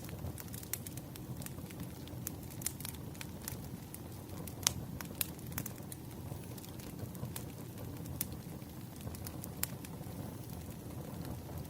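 Firewood burning, with irregular sharp crackles and pops over a steady low rumble. The loudest pop comes a little under five seconds in.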